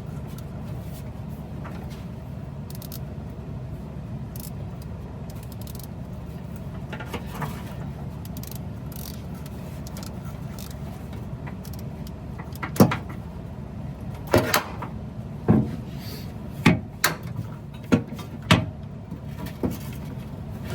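Hand tools clinking and knocking on the rusty bolts of a Chevy C10's exhaust manifold: a run of about eight sharp metallic knocks, roughly one a second, starting about two-thirds of the way in, over a steady low hum.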